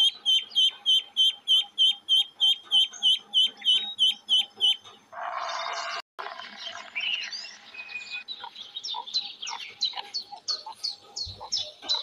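Ducklings peeping: a fast, even series of high chirps, three or four a second, for about five seconds. A short burst of noise and a moment's silence follow, then a different run of high chirps.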